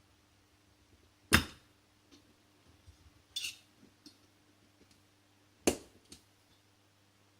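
Small metal turbocharger parts clinking, with two sharp metallic clicks about a second in and near six seconds and lighter clinks between: a lock ring being snapped into its groove to hold the bearing of a KKK K03 turbo.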